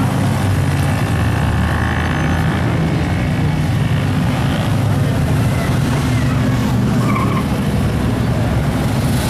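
Car engines running as cars drive past slowly, a steady low rumble.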